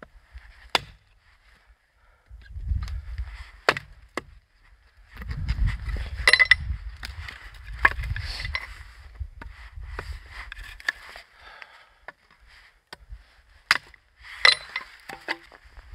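An axe striking and chopping firewood: about six sharp, separate blows a few seconds apart, the loudest about six seconds in. The wood is not fully seasoned and splits poorly.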